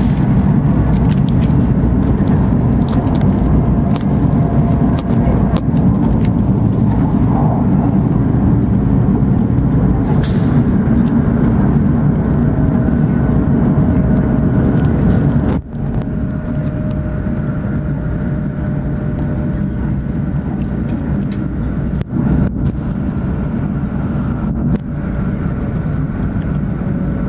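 Cabin noise inside an E2 series Shinkansen running at high speed: a steady, loud low rumble with a faint high steady tone over it. About halfway through the level dips sharply for a moment, then runs on a little quieter.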